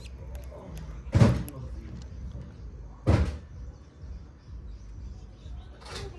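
Two heavy thumps, about two seconds apart, over a low steady hum.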